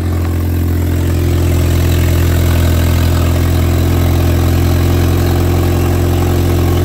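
Straight-piped 2.0T Audi A4's turbocharged four-cylinder idling loud and steady on a cold start, with a deep, even drone and no revving; the exhaust is open from the flex pipe with no mufflers or resonator.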